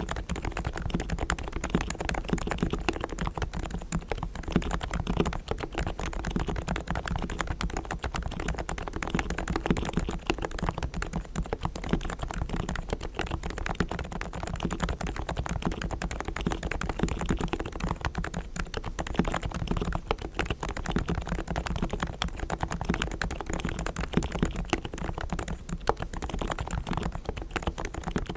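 Continuous fast typing on a Realforce R3 tenkeyless Topre electrostatic capacitive keyboard with silenced 45 g equal-weight switches, fully lubricated springs and sliders and tuned stabilizers: a dense, steady stream of keystrokes.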